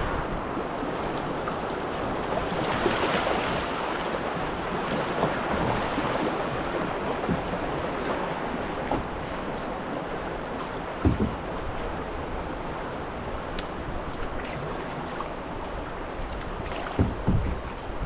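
Steady rush of river water from a small rapid around a canoe, with a knock of a paddle or the hull about 11 seconds in and a few more near the end.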